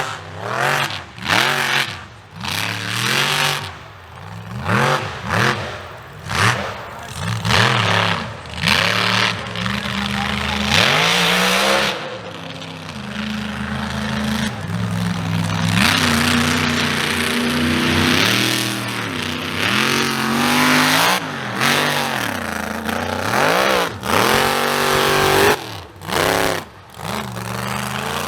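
Mega mud truck's big engine revving hard again and again, its pitch climbing and falling with each stab of the throttle, with many brief drops in level.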